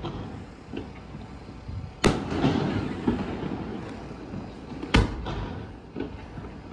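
Aerial firework shells bursting: two sharp booms about two seconds and five seconds in, the first followed by a lingering rumble.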